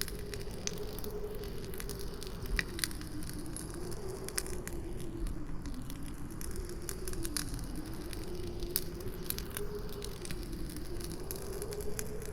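Campfire crackling, with frequent sharp pops and snaps, over a low, steady howling wind whose pitch slowly rises and falls.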